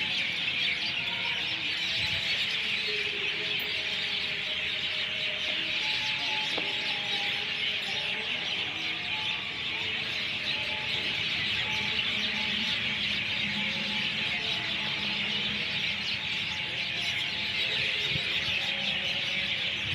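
Dense chorus of many birds chirping at once, a continuous high chatter that holds steady throughout.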